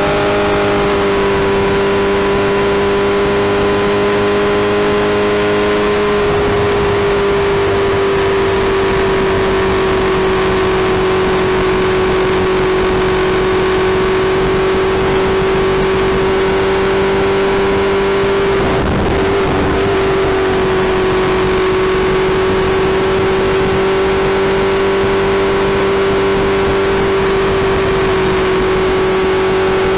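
Suzuki Hayabusa's inline-four engine and exhaust running steadily, a loud even drone held at one pitch, with a brief break in it about nineteen seconds in.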